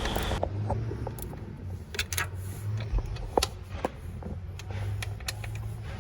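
Scattered light clicks and metallic clinks of hand tools and fittings being handled in an engine bay, at irregular intervals, over a low steady hum.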